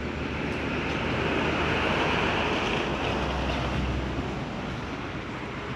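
Street traffic: a passing vehicle's road noise swells to its loudest about two seconds in, then slowly fades.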